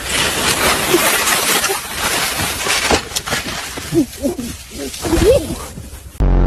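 An animal's short, wavering calls, several in a row, about four to five and a half seconds in, over a loud, steady noise.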